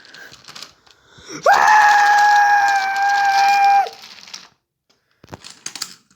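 A train whistle blows once for about two seconds, its pitch sliding up as it starts and dropping as it stops. Light clicking and rattling come before and after it.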